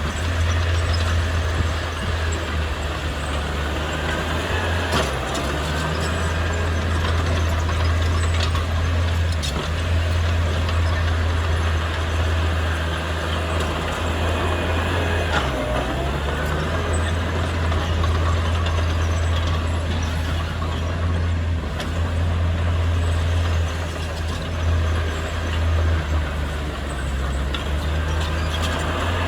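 Heavy diesel construction machinery running steadily under load: a continuous low engine drone, with a whine that rises and falls now and then and a few short clicks.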